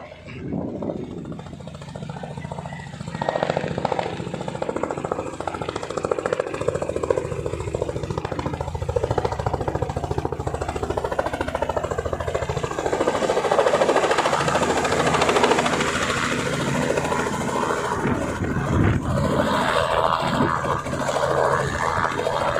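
Helicopter rotor and engine running steadily, a continuous low hum with a broad rushing noise that gets louder a few seconds in.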